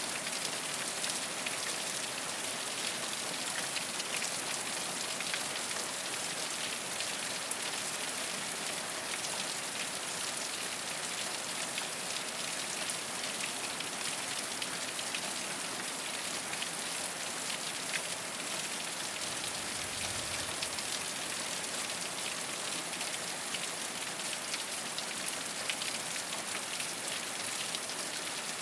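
Steady rain falling on a rooftop: an even hiss with many small drop ticks.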